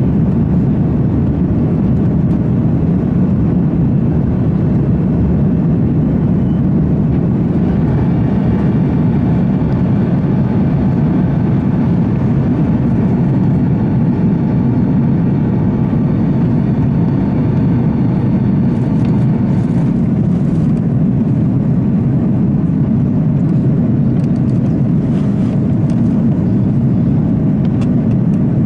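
Steady, loud cabin noise of an Airbus A330-343 in flight, the rush of airflow and its Rolls-Royce Trent 700 engines heard from a passenger seat. A few faint thin tones rise over it midway.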